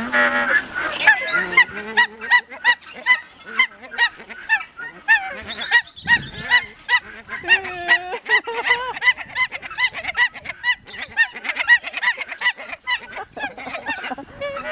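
A flock of birds calling close by: many short, sharp calls, several a second, overlapping throughout.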